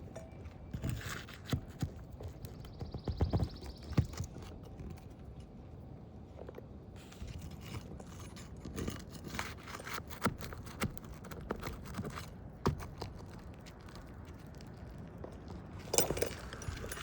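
Scattered scrapes, taps and knocks of hand tools working against roof shingles as the nails holding a shingle row are released, with short pauses between.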